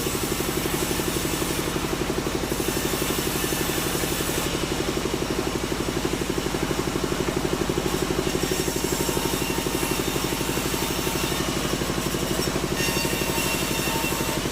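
Sawmill engine running steadily with a fast, even throb.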